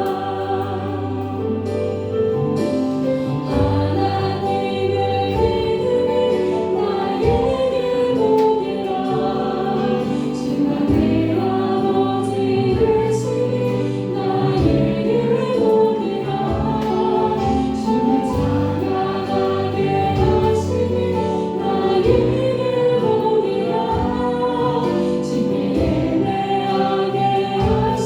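Church worship team and congregation singing a Korean praise song in unison, with instrumental accompaniment carrying steady low notes underneath.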